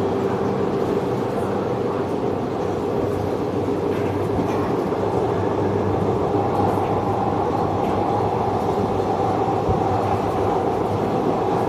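Kaveri Express passenger train running along the track: a steady rumble of wheels on rail, with a faint steady hum that grows a little stronger about halfway through.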